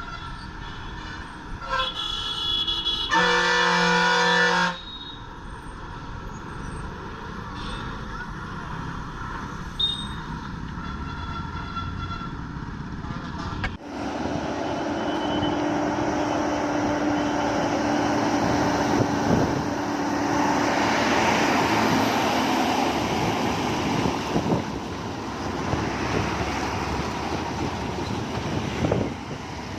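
Vehicle horns sounding two blasts in the first few seconds, the second longer and louder. From about halfway in, the louder running noise of a heavy truck's engine takes over as it climbs.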